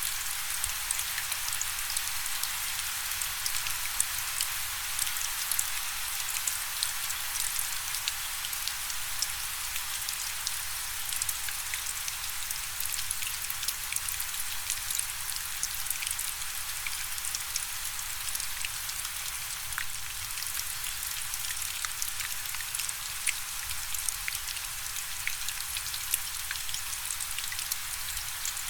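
Steady rain falling, a continuous hiss dotted with many small, sharp drop impacts.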